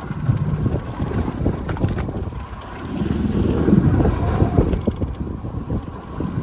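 Wind buffeting the microphone over the low rumble of a fishing boat at sea, with irregular knocks; the noise swells about three seconds in.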